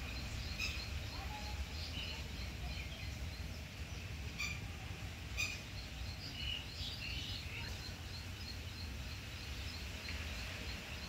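Faint, short bird chirps scattered throughout, with two sharp clicks near the middle, over a steady low hum.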